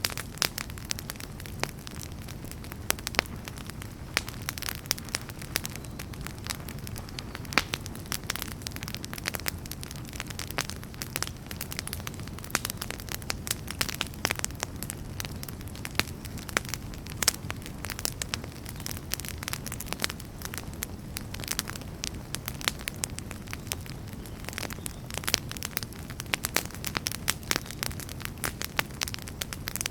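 Wood fire burning in a fireplace: frequent, irregular sharp crackles and pops from the burning logs over a steady low rumble of the flames.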